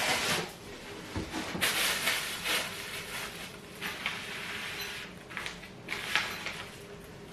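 Hands handling flat-pack dining table parts during assembly: an irregular run of scrapes, rustles and light knocks.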